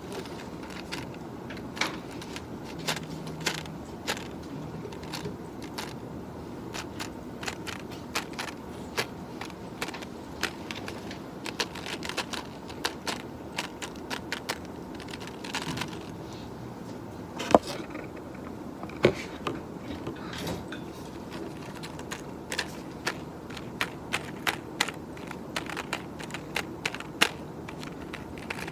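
Computer keyboard being typed on: irregular key clicks, several a second, with two louder clacks past the middle, over a steady low room hum.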